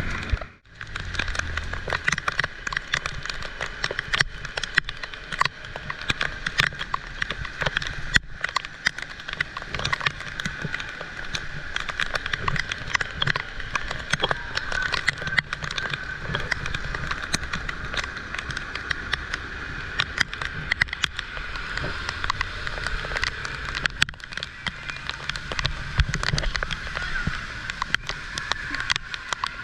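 Heavy rain falling, with many sharp drop hits close to the microphone over a steady hiss.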